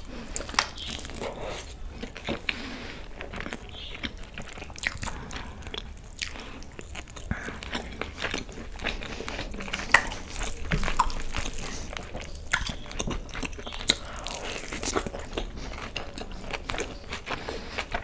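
Close-miked eating of chicken egg fried rice and chicken manchurian by hand: steady chewing with irregular wet mouth clicks and smacks.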